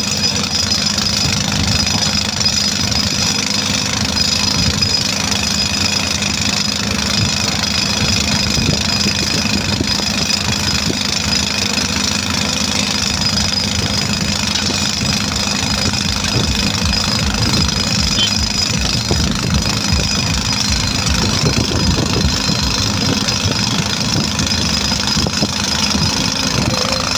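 Heavy-machinery diesel engine running steadily, with a rapid low pulse and a steady hum.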